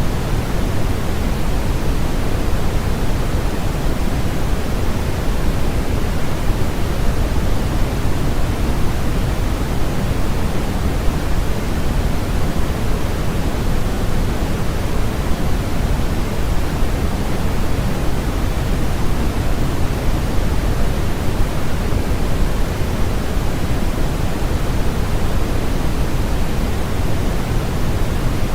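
Continuous synthetic noise for sleep masking: a steady, unchanging hiss spread evenly over the whole range, heavier in the low end.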